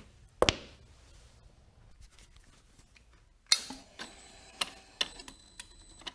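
Scattered knocks and clicks, a sharp one about half a second in and another about three and a half seconds in, followed by several lighter clicks over a faint steady high whine.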